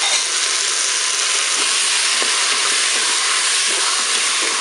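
Chopped tomatoes, yellow pepper and onion sizzling steadily in hot olive oil in a Moulinex Cookeo multicooker bowl on its browning setting, with a wooden spatula stirring and scraping through them.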